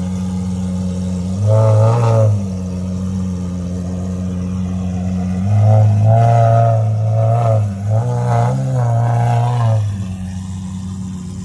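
Supercar engines at a car meet: a steady low engine hum underneath, with a short loud rev about a second and a half in, then a longer spell of hard revving and accelerating from about five and a half seconds that briefly dips midway before fading near the end.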